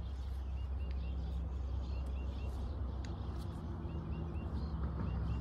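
Short bird chirps repeated in little groups of two or three over a steady low hum.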